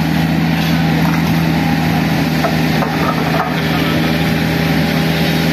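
An engine running steadily with a constant low hum, the pitch and level holding even throughout.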